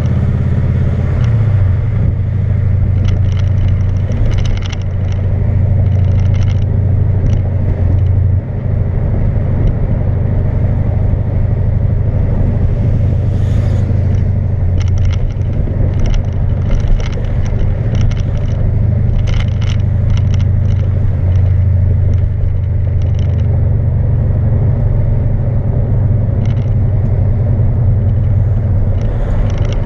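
Twin-turbo Subaru driving with its muffler blown out, so the exhaust is basically a straight pipe: a loud, steady low drone.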